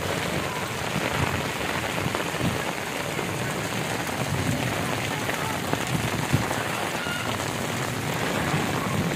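Heavy rain falling steadily on a flooded street, a dense, even hiss of drops on water and wet ground.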